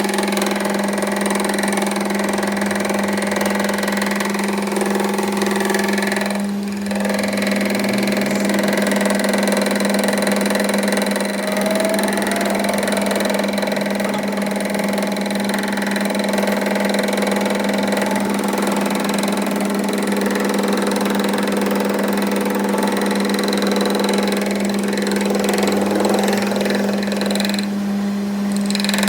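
A machine motor running steadily with a constant, unchanging hum.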